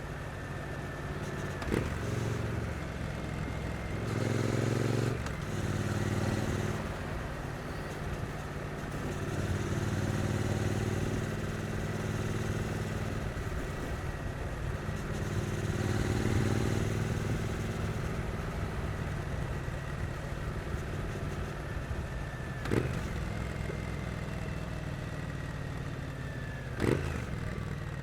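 2022 Triumph Street Twin's 900cc parallel-twin engine running while ridden at city pace, pulling harder and easing off by turns. Three short sharp clicks cut through it, the loudest near the end.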